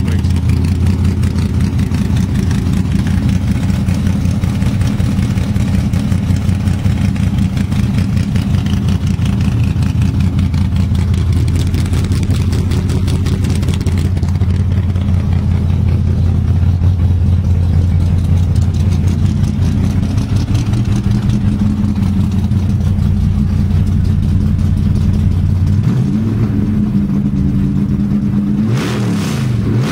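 A/FX drag car's engine idling steadily as it warms up from a cold start, then revved a few times near the end, the pitch rising and falling.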